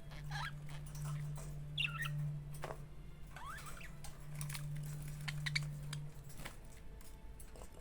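Pet budgerigar chattering: a few short chirps and gliding whistles among soft clicks. A low steady hum runs under it and stops about six seconds in.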